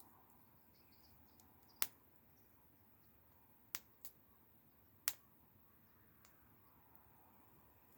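Wood fire crackling: a handful of sharp, irregular pops over a faint, quiet background, the loudest a little under two seconds in and again about five seconds in.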